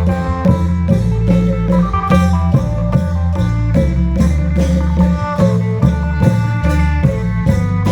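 Isan long-drum (klong yao) troupe music: a steady drum beat, about two to three strokes a second, under a sustained melody in the khaen style with a droning bass.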